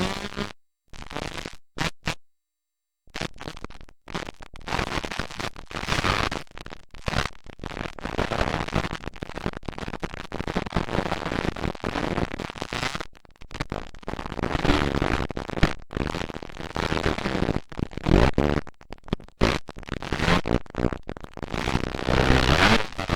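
Motocross dirt bike engines running, heard as a harsh, distorted, choppy noise. The sound cuts out briefly a few times in the first three seconds, and an engine revs up near the end.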